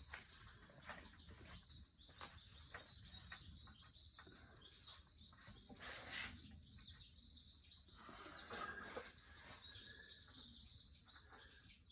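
Near silence: a faint high-pitched background tone with scattered light clicks, and one slightly louder brief noise about halfway through.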